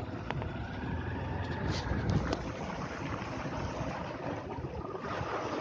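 A motor vehicle's engine running steadily, with a constant rushing noise, as it is driven through floodwater.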